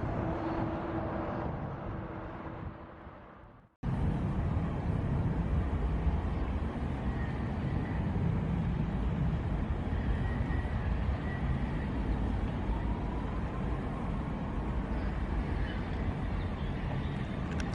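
Jet airliner engine noise at an airport: a fading engine sound with a steady hum, then after an abrupt cut a steady low rumble of jet engines, with a faint rising whine near the middle.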